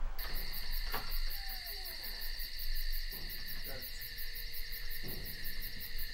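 Night insects trilling, as of crickets: a steady shrill chorus with a fast, even pulsing on top, switching on abruptly and cutting off near the end.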